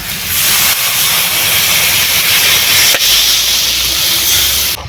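Water poured into a hot kadai of well-sautéed vegetables, spices and crab, hissing loudly as it boils into steam; the hiss stops suddenly near the end.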